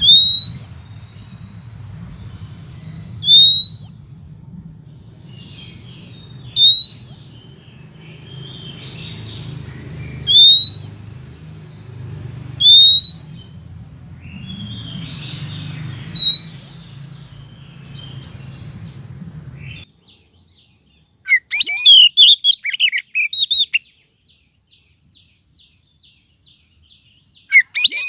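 Female Oriental magpie-robin lure call: a single loud, rising whistle repeated about every three seconds over a low steady hum. After about twenty seconds the hum cuts off and a burst of rapid, jumbled chirps follows, with another starting near the end. This is the female call used to draw male magpie-robins in.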